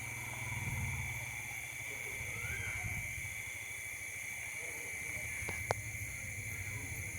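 Steady high-pitched insect chorus over a low rumble, with a short chirp a few seconds in and a single sharp click near the end.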